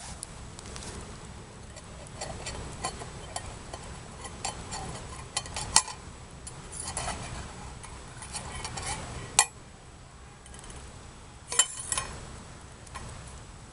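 Metal utensil clinking and scraping against a stainless steel cook pot, with three sharp clanks standing out.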